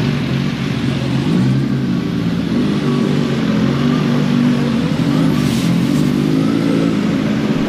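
A car engine running at low revs close by, its note rising and falling a little as it moves slowly.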